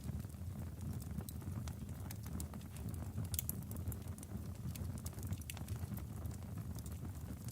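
Wood logs burning in a fireplace: irregular sharp crackles and pops over a low, steady rumble of flames.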